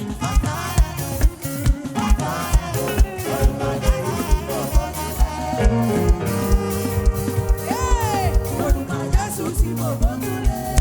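Live praise-band music with a quick, steady bass-drum beat, about three thumps a second, under held keyboard and bass chords.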